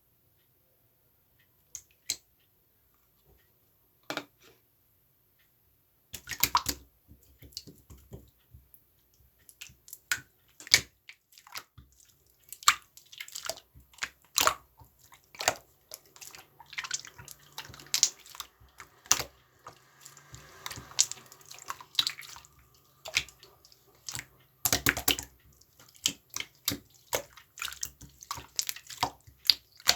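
Toy slime being squished and kneaded by hand, giving irregular wet clicks and pops. There are only a couple of isolated clicks at first, and the sounds turn dense from about six seconds in.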